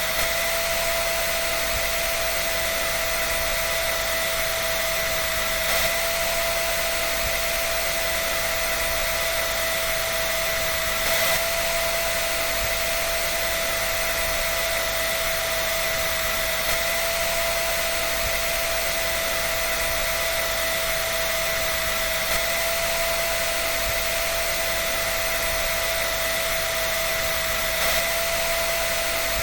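Electric dryer running steadily: a constant airy rush with a steady motor whine, swelling slightly about every five and a half seconds.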